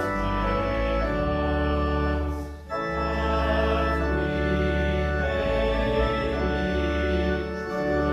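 Church organ playing sustained chords, with a brief break between phrases about two and a half seconds in.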